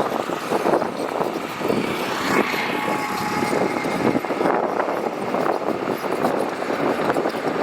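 Heavy earthmoving machinery working gravel: a diesel engine runs steadily under constant clattering and crunching.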